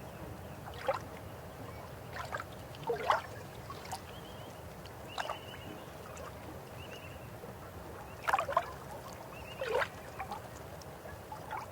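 River water running with a steady low rush, broken by about six sudden short gurgles and splashes, the loudest near three seconds in and a pair late on.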